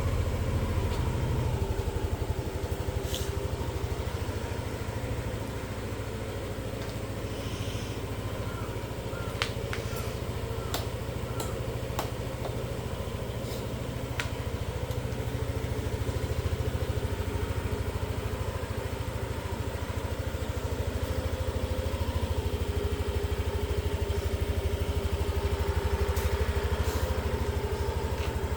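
Yamaha Cygnus Gryphus scooter's 125 cc single-cylinder four-stroke engine idling steadily, having just started. A few faint clicks come in the middle.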